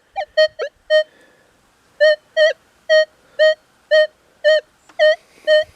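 Minelab Manticore metal detector sounding target tones as a bullet is swept over its coil. A few quick beeps come first, then after a short pause a steady run of beeps at about two a second, all at one mid pitch, as it reports the bullet's conductivity.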